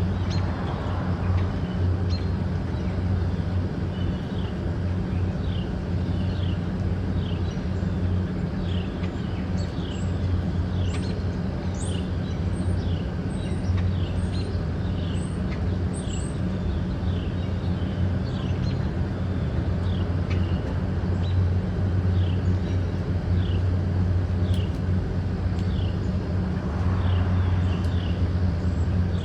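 A steady low mechanical hum, like a nearby engine or traffic, under a bird calling a long even series of short falling notes, about one or two a second. Between about ten and sixteen seconds in, a second run of higher, rising notes joins in.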